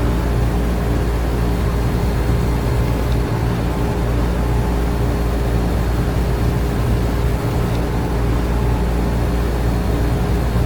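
Air conditioner and electric fans running together: a steady low hum under an even rush of air, unchanging throughout.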